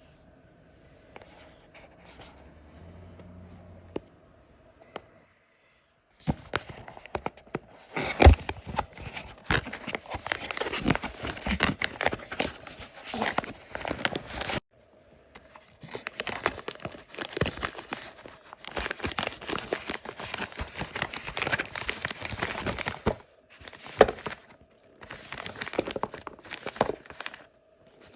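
Packaging being torn open and crinkled during an unboxing, in long bouts of rustling and tearing that begin about six seconds in, with brief pauses between them.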